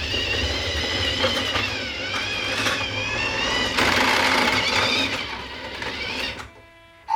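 Small electric toy motor running continuously, its whine wavering up and down in pitch, with a denser rattling stretch about halfway through.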